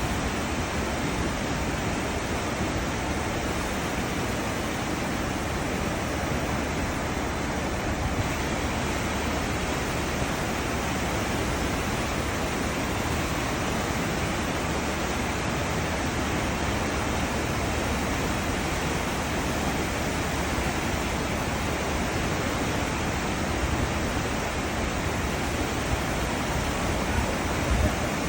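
Cruise ship wake: churning seawater rushing in a steady, unbroken wash.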